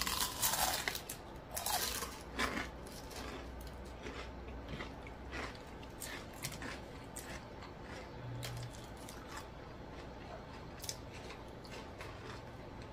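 Close-up eating sounds of crunchy fried food: a few loud crunching bites in the first couple of seconds, then quieter chewing with small clicks and smacks.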